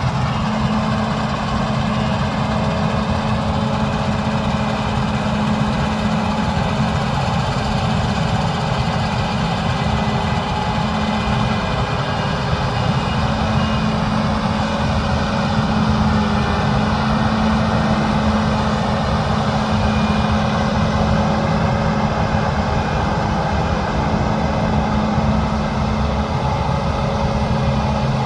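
Large diesel engine of heavy harvest machinery running steadily, with a steady mechanical whine above the low engine note.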